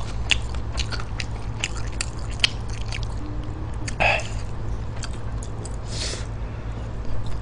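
Close-miked mouth sounds of someone eating chewy stir-fried pork intestines: many small wet clicks and smacks of chewing, with two short breathy noises about four and six seconds in. A steady low hum runs underneath.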